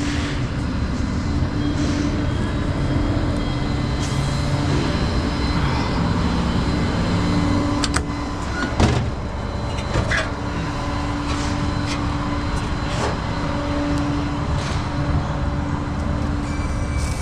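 Truck engine running steadily, with a few sharp knocks about eight to ten seconds in.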